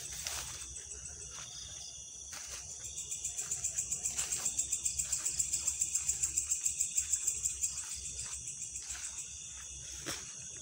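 Night insects, crickets, chirping steadily in a high-pitched chorus. A rapid pulsing trill of about seven pulses a second swells a few seconds in and fades again near the end.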